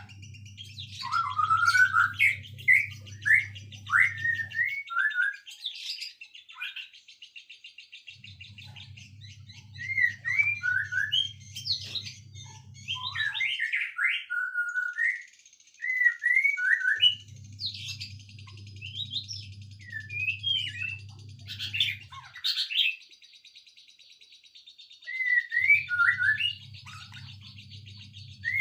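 Songbirds chirping in short, quick repeated phrases over a steady high trill from another bird. A low hum comes and goes in blocks of about four seconds, and the whole pattern repeats roughly every nine seconds, as in a looped recording.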